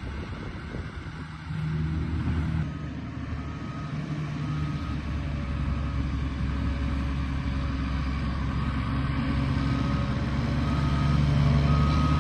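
RC bulldozer running with a steady engine drone that comes in about a second and a half in and slowly grows louder. A reversing beeper starts sounding a few seconds in, with short high beeps a little faster than once a second.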